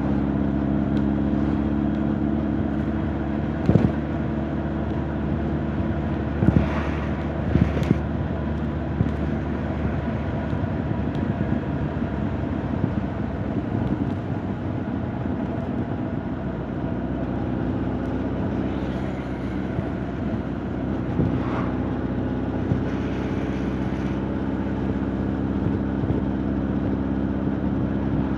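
Honda CB1300 Super Bol d'Or's inline-four engine and exhaust running steadily under way, heard from the rider's back. The note softens for a few seconds about midway and then picks up again, with a few short sharp knocks in the first part.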